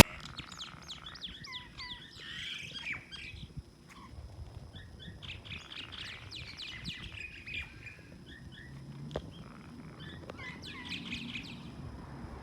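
Small birds chirping and twittering in several quick bursts of short, high calls, with a single click about nine seconds in.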